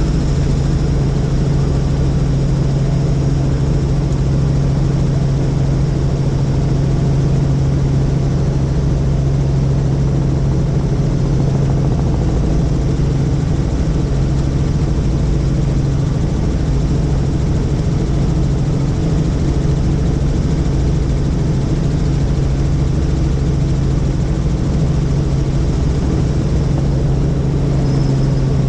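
Helicopter running with a steady, loud, low drone from rotor and engine that holds unchanged throughout.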